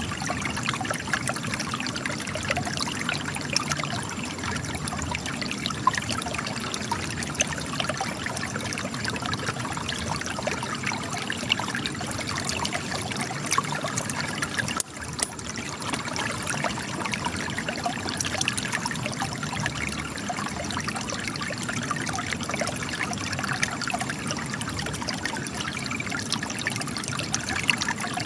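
Spring water trickling and gushing out of cracks in rock, a steady dense splashing with a momentary dip in level about halfway through.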